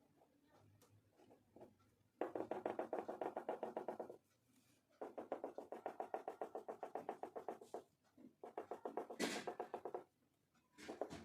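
Oil pastel scribbling rapidly back and forth on paper in three runs of quick, even strokes, about ten a second, each run lasting two to three seconds with short pauses between.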